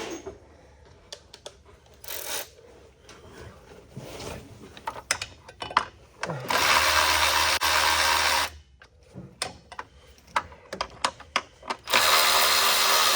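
Handheld power tool running in two steady bursts of about two seconds each, the first about six seconds in and the second near the end. Between the bursts there are scattered light clicks and knocks of hand tools.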